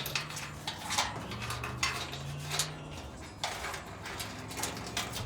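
Scattered clicks and light clattering of dryer parts being handled during disassembly and cleaning, over a low steady hum.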